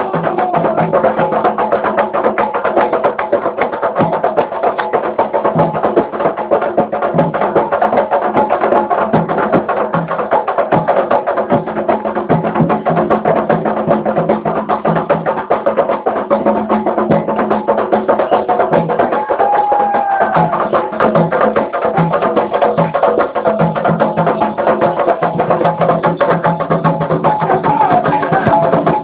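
Percussion-led music: fast, dense drumming with wood-block-like clicks over a steady low drone, with a few brief pitched glides that may be voices.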